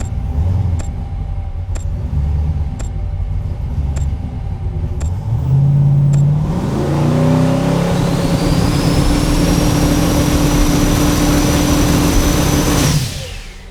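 Turbocharged 6.0-litre iron-block LS V8 in a 2002 Pontiac Trans Am with a Precision 88 mm turbo, idling unevenly, then revving up about five seconds in with a rising turbo whistle and holding high revs for several seconds before cutting off near the end.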